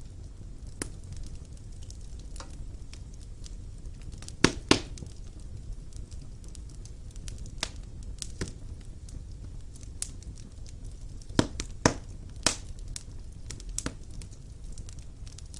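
Fire crackling in a fireplace: irregular sharp pops and snaps over a low steady rumble, with the loudest pops about four and a half seconds in and again around twelve seconds.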